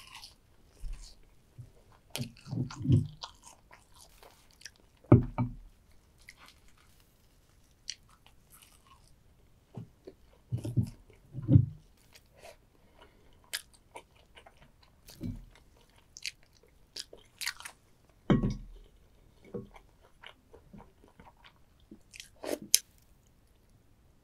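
Close-up eating sounds of soy-sauce-marinated stone crab: irregular bites and crunches of crab shell with chewing in between, several louder crunches scattered through.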